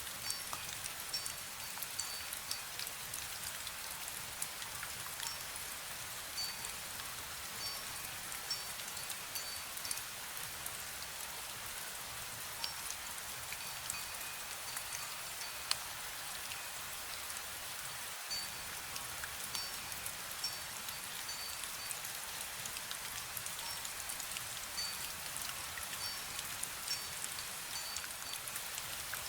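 Steady misty rain pattering on surfaces, with scattered drop ticks. Every few seconds a metal wind bell gives short runs of faint, high tinkling notes.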